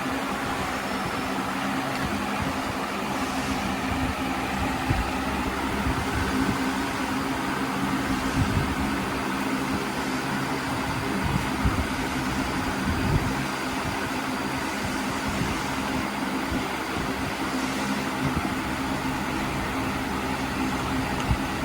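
A steady mechanical hum of a running motor or engine, with a few light knocks and clicks.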